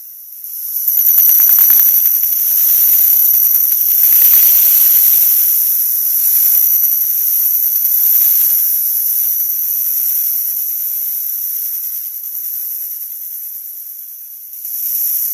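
A 'wah wah' sound effect sped up so far that it no longer sounds like a tune and has become a high, steady hiss and whine, like static. It swells about a second in, slowly fades, and swells again near the end.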